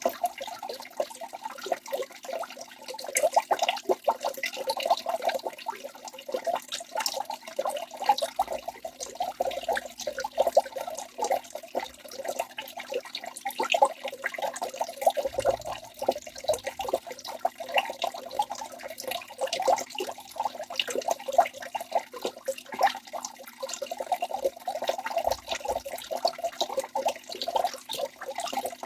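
Waterfall: water falling and splashing steadily, a continuous uneven burble made of many small splashes.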